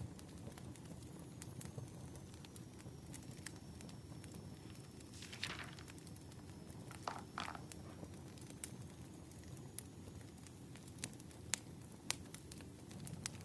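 Wood fire burning, with irregular sharp crackles and pops over a steady low rumble, and a couple of brief softer hissing noises midway.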